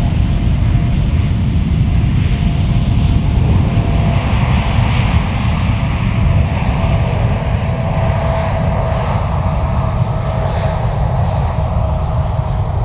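Jet airliner engines running loud and steady at close range, a deep rumble with a thin steady whine over it.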